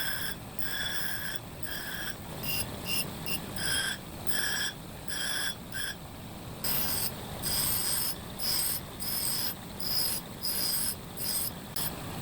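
Hand-worked metal scraping in quick repeated strokes, roughly two a second, each stroke giving a high squeal; the strokes pause briefly about halfway through.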